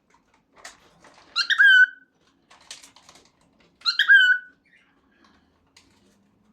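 Cockatiel repeating its short, squeaky 'peek-a-boo' phrase twice, about two and a half seconds apart, each time a quick rise into a held whistle-like note. Faint clicks and rustling in between.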